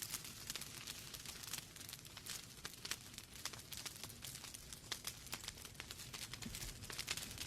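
Wood fire burning in a fireplace: burning logs crackling and popping irregularly over a low steady hiss and rumble of the flames.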